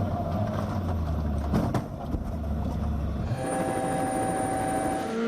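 Rally car sound from the compilation: a low rumbling engine and road noise, then about three seconds in a change to a steadier engine drone at a held pitch.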